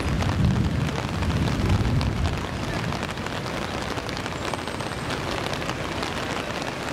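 Rain and fast-flowing floodwater making a steady hiss, with a deeper rumble over the first two seconds or so.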